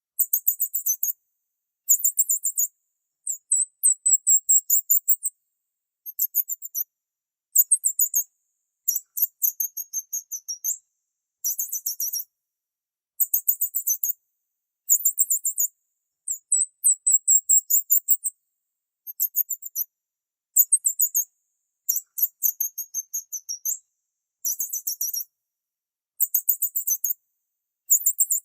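High-pitched bird chirping in short runs of rapid chirps, each run lasting about half a second to a second and a half, repeated over and over with brief gaps between.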